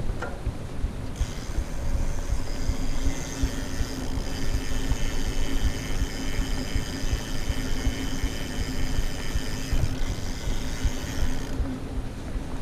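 Mountain bike rear freehub buzzing while the rider coasts, a steady ratcheting whine that starts about a second in and stops near the end, over a low rumble of tyres and wind.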